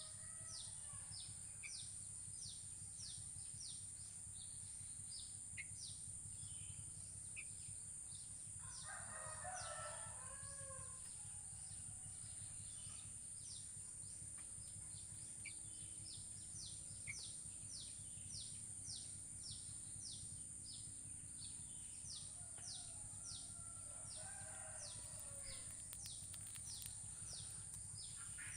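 A rooster crowing twice, about 8 seconds in and again about 24 seconds in, over a steady series of short, high falling chirps from a small bird, about two a second, and a constant high whine.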